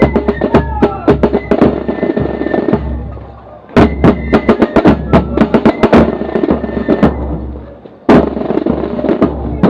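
Marching corps of drums playing rapid snare strokes over bass drum, with flutes holding a high note. The drumming dips briefly twice and comes back in with a loud hit each time.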